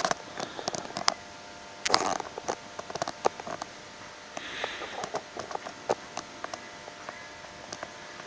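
Faint handling noise: scattered small clicks and taps, with a brief soft rustle about four and a half seconds in.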